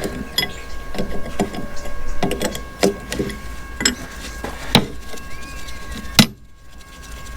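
Irregular clanks and knocks of hand tools and metal parts being worked on, with one sharp loud knock about six seconds in, while over-tightened bolts are worked loose on a truck's hydraulic pump adapter.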